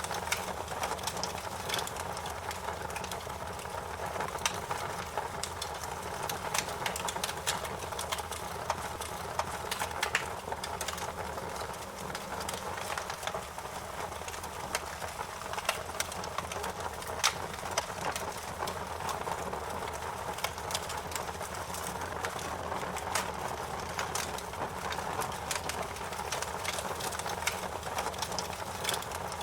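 Wood fire in a fireplace crackling: many irregular sharp pops and snaps over a steady hiss.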